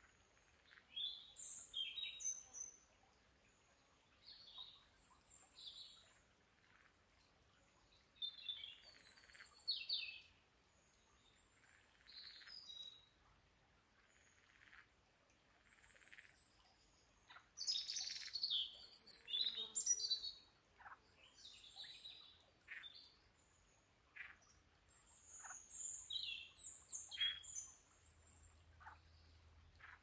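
Songbirds singing short, high, twittering phrases every few seconds, several birds in turn, over a faint steady hiss.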